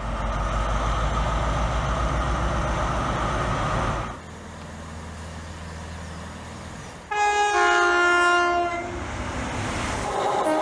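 Diesel train engine running steadily with a deep rumble, then, after a sudden cut to a quieter engine rumble, a two-tone train horn sounds about seven seconds in, a higher note followed by a lower one for about a second and a half. Near the end the noise of a passing train rises.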